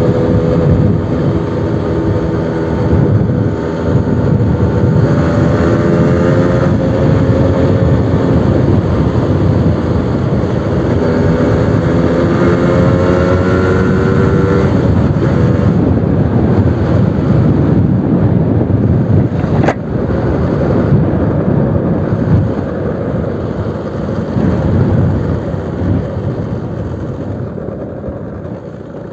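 Suzuki RC100's single-cylinder two-stroke engine running loud through a new aftermarket exhaust, its pitch climbing and dropping twice in the first half as it is revved or accelerated. It then runs steadier and rougher, with one sharp click about two-thirds in, and fades away near the end.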